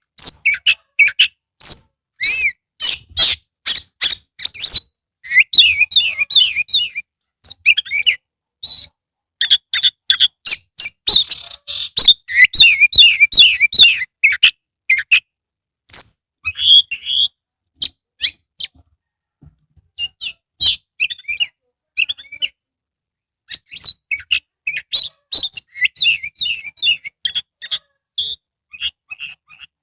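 Oriental magpie-robin (kacer) in full, loud song: a rapid run of varied sharp whistled notes and clicks, with fast rattling trills, and a short lull a little past the middle.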